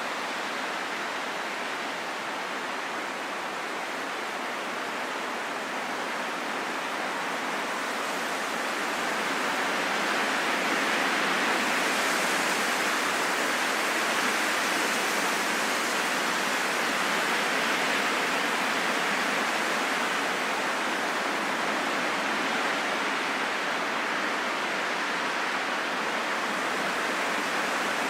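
Steady wind blowing, an even rushing noise with no howl or whistle, swelling a little about a third of the way in and then holding.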